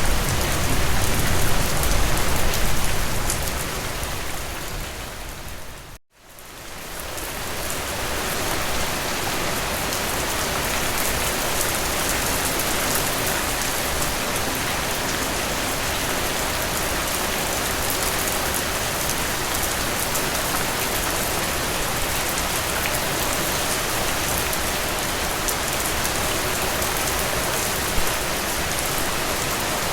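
Steady rain falling through trees, an even hiss of many drops. About six seconds in it fades out to a moment of silence and then swells back up.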